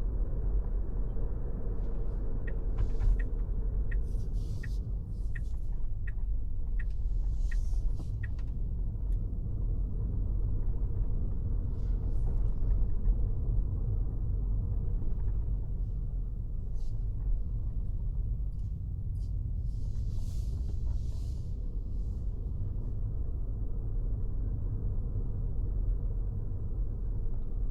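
Road and engine rumble inside a moving car's cabin, steady and muffled. For several seconds near the start a light regular ticking, about two ticks a second, sits over it, and a few brief hisses rise and fade.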